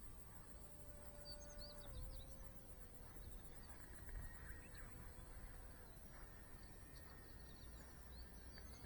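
Faint outdoor ambience: a steady, pulsing high insect drone and a few short bird chirps. A thin, faint hum whose pitch steps down about two seconds in comes from the small brushless electric motor and propeller of the sub-100 g RC model plane flying at a distance.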